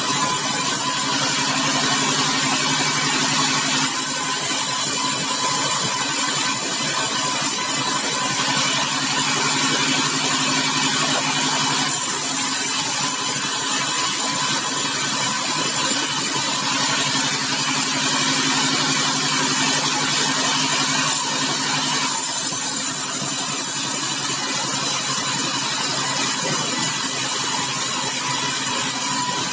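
Sawmill machinery running steadily: a constant engine drone under the noise of the saw. A high hiss rises and falls away three times, about a second in, around nine seconds in and around seventeen seconds in.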